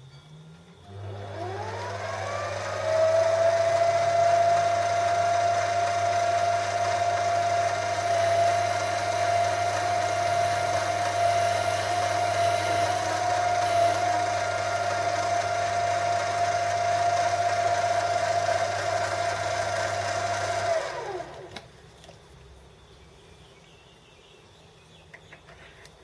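Metal lathe starting up with a rising whine, running steadily with a low motor hum while a collar on the shaft is cleaned up, then switched off about 21 seconds in and winding down.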